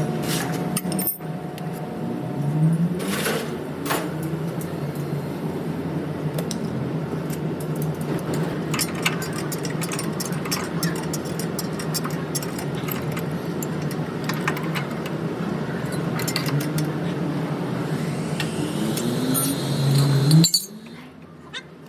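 Light metallic clinks and taps of tools and parts over a steady low hum; the sound cuts off abruptly near the end.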